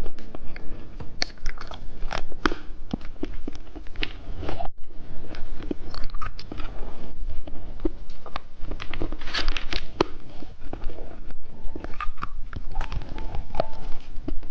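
Candy being bitten, crunched and chewed: a dense run of sharp crunching clicks, with a brief pause about a third of the way in.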